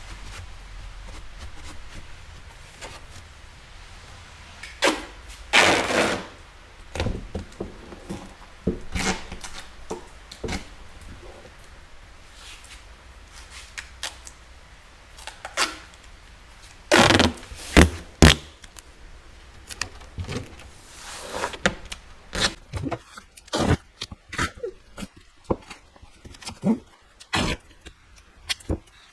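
Irregular knocks, clunks and thuds of a granite slab being handled and fastened down onto a workbench, loudest in two bursts around six seconds in and around seventeen to eighteen seconds in, with quicker, lighter taps near the end.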